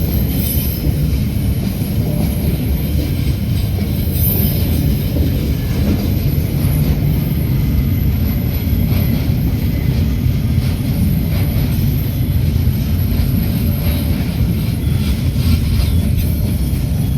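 Train hauled by a DL-class diesel-electric locomotive rolling through the station, a steady loud rumble of wheels on the rails with faint clicks over the rail joints.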